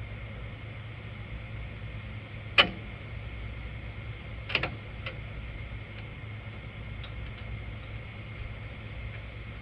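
Tools and metal parts knocking during hand work on a tractor loader control-lever linkage: one loud sharp click, then two smaller clicks about two seconds later, over a steady low hum.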